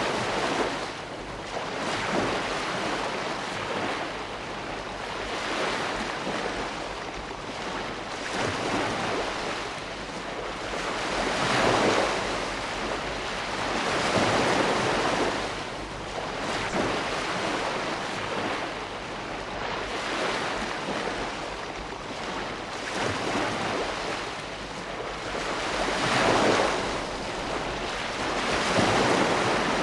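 Ocean waves breaking and washing on a shore, a steady rushing surf that swells and ebbs every few seconds, with stronger surges a few times.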